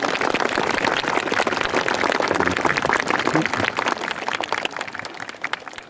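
Audience applauding, the clapping thinning out and fading over the last two seconds.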